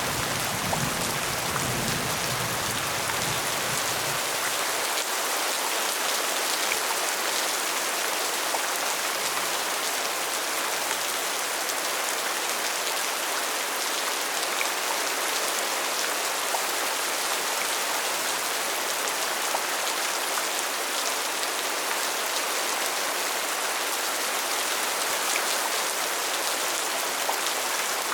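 Steady rain falling, an even hiss of many drops. A low rumble underneath fades out about five seconds in.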